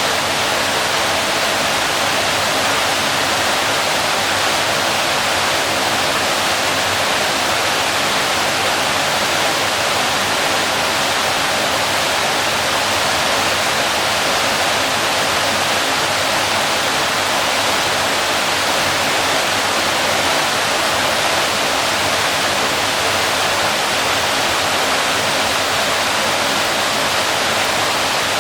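Waterfall: water falling and crashing in a loud, steady, unbroken rush.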